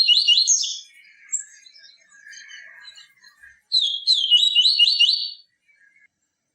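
A papa-capim seedeater singing its fast "tui tui viviti" phrase of quick repeated high chirps. One phrase ends just under a second in and another runs from about four seconds to about five and a half, with softer twittering between them.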